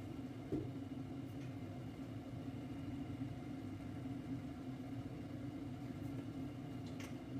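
Steady low mechanical hum, with a faint click about half a second in and another near the end.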